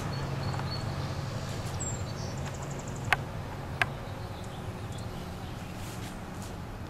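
A steady low hum, with a short high bird chirp and quick trill about two seconds in and two sharp clicks about three and four seconds in.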